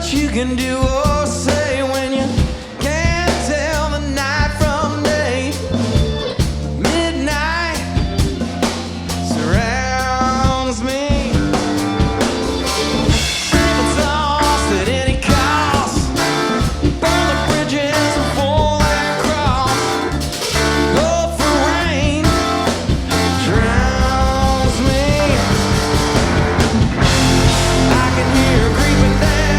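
A live rock band playing, with singing over guitar and bass.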